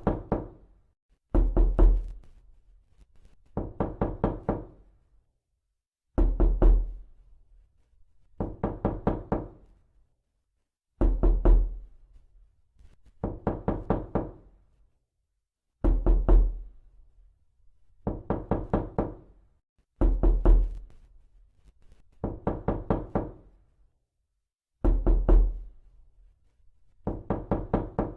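Knocking in bursts of about five or six quick raps, repeating every two to two and a half seconds.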